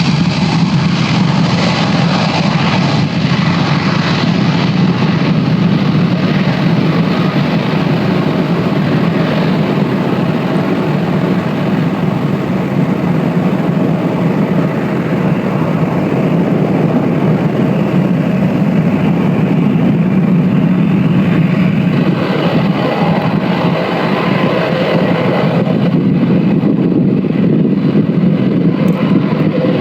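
Jet airliner engines, a loud steady rushing roar whose high hiss thins out toward the end.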